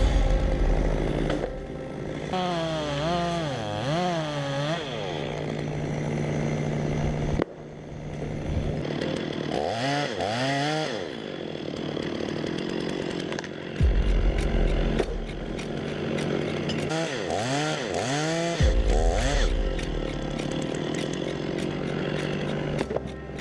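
Chainsaw engine running, revving up and down several times between stretches of steadier running, with a few abrupt changes in the sound.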